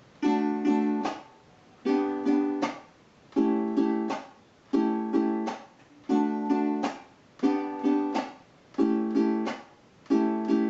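Venezuelan cuatro strummed in a waltz pattern: two index-finger upstrokes and then a muted downstroke, the 'apagado', where the resting palm chokes the strings into a short click. The pattern repeats about every second and a half, eight times, moving through D major, G major and A7 chords.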